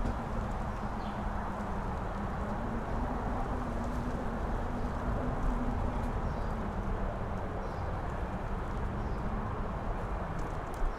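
Strong mountain-top wind rushing, with low buffeting rumble on the microphone and a steady howling tone that slides down in pitch near the start and rises again near the end.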